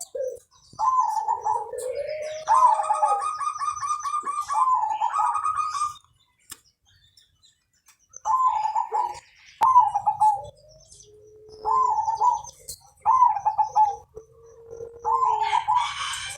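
Zebra dove (perkutut) singing its cooing song. A rapid run of staccato notes comes in the first few seconds, then after a short pause a string of short coos about once a second.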